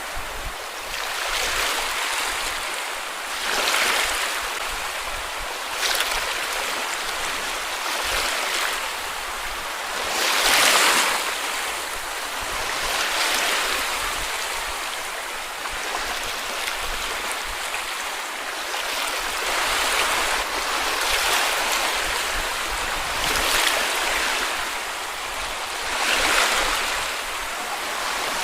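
Sea waves washing onto a beach, the surf swelling and falling back every few seconds, one wave louder than the rest about ten seconds in.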